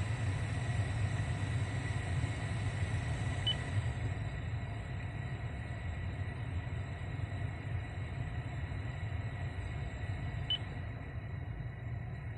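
Original Denso heater blower motor in a Lexus GX460 running, a steady low rumble of airflow from the fan, first at maximum speed. Faint clicks about three and a half seconds in and again near the end come as the sound steps down a little quieter.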